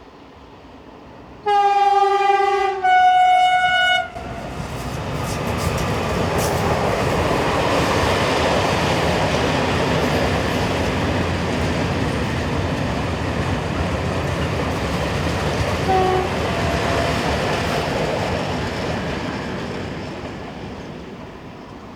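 A Stadler Euro 6000 (class 256) electric freight locomotive sounds its two-tone horn, a low note then a higher note, then passes with its train. The rumble of the wagons swells, holds and fades, with one short horn toot partway through.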